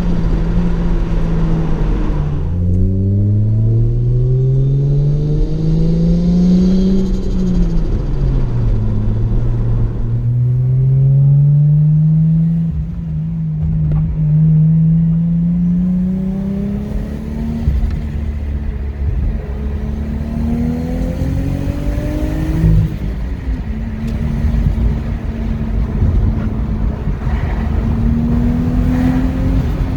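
Turbocharged Lexus IS200's 2.0-litre straight-six pulling through the gears under acceleration. Engine pitch climbs steadily, then drops sharply at gear changes about 2 seconds in, around 8 seconds in and near 23 seconds, settling to a steadier cruise between pulls.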